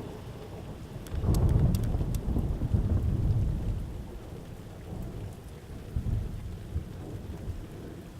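A crash of thunder breaks about a second in and rumbles low and loud for a couple of seconds, then rolls on in weaker rumbles and fades, over steady rain.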